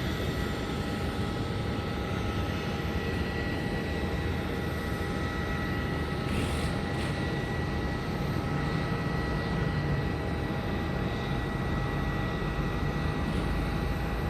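Private jet's engines on takeoff and climb-out, heard at a distance: a steady rumble with a thin, steady whine over it.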